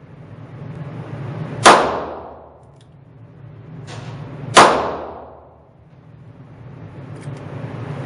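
Two shots from a Ruger SP101 9mm revolver, about three seconds apart, each ringing out with a long echoing tail in an indoor range. A few light clicks follow near the end.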